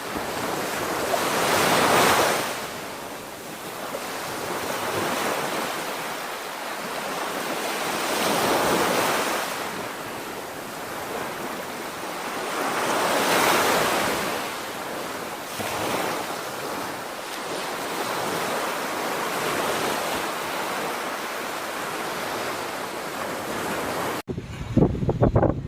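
Sea surf washing onto the beach, a steady rush that swells every few seconds as each wave breaks. Near the end it cuts suddenly to wind buffeting the microphone.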